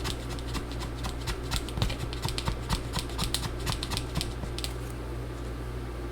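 Plastic card scraping old battery adhesive tape off the inside of a MacBook Pro's aluminium case in short quick strokes. The strokes make a fast run of small clicks and scratches that stops about four and a half seconds in.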